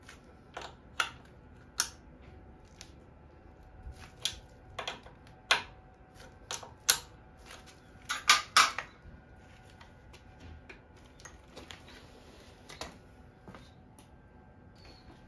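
Irregular light clicks and taps, some twenty of them at uneven spacing, with a quick cluster of louder ones about eight seconds in, like small hard objects being handled and set down.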